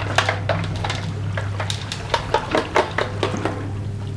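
Metal gas stove parts being washed by hand in water: splashing and a run of short clinks and knocks, busiest a couple of seconds in.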